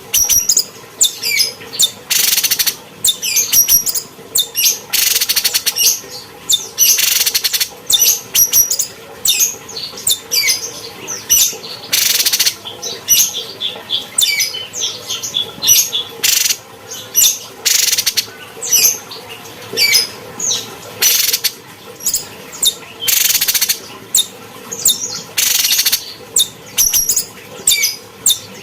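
Cucak cungkok (streak-eared bulbul) singing a continuous, fast run of chirps and slurred whistles, broken every second or two by harsh hissing bursts.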